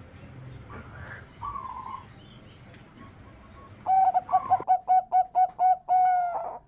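Zebra dove (perkutut) cooing: a faint coo, then about four seconds in a loud run of about eight quick staccato coo notes ending in one longer held note.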